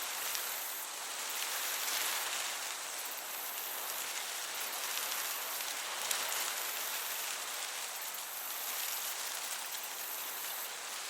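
Summer meadow ambience: crickets chirping high in pulsing spells over the steady hiss of a gentle breeze.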